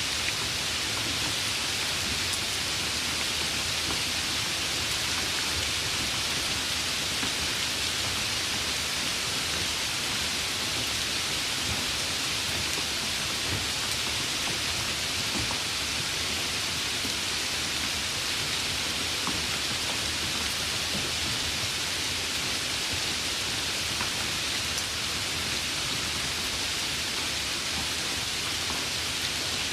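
Steady rain falling, an even continuous hiss with faint scattered drop ticks.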